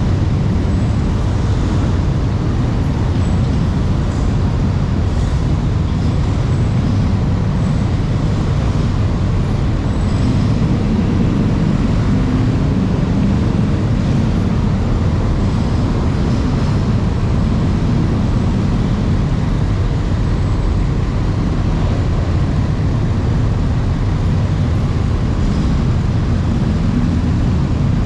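Steady low rumble of running vehicle engines, unbroken and even in level.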